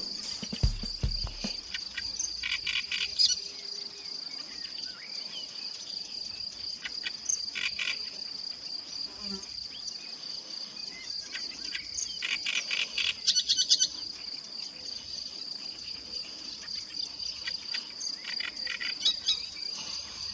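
Steady, high, pulsing insect trill, like crickets, with a few short bursts of rapid bird chatter breaking in several times; a couple of low thumps near the start.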